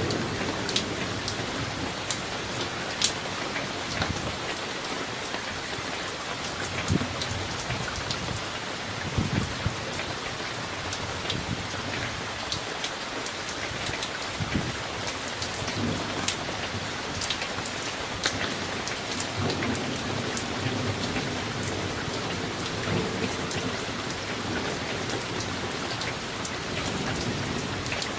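Steady rain from a summer thunderstorm, with sharp individual drops striking a surface close by. At times a low rumble of distant thunder sits under the rain.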